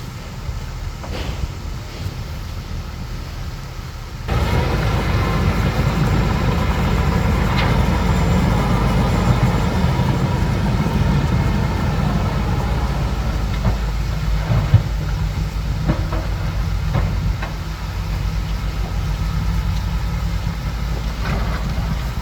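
Bulldozer's diesel engine running under load, with scattered metallic clanks from the tracks. The rumble becomes suddenly louder about four seconds in.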